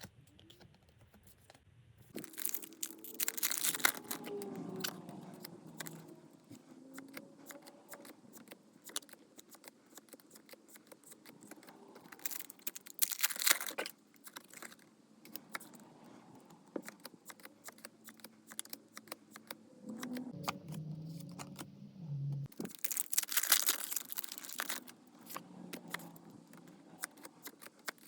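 Foil booster-pack wrappers being torn open and crinkled: three loud tearing bursts, near the start, in the middle and near the end, with light clicks and rustling of handling in between.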